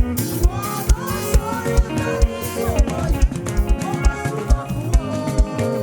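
Live band music: an upbeat groove on a drum kit, the kick drum landing about twice a second, with melodic lines playing over it.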